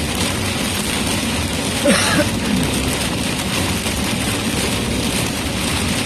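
Heavy rain on a moving vehicle, heard inside the cab as a steady wash of rain and road noise over the engine.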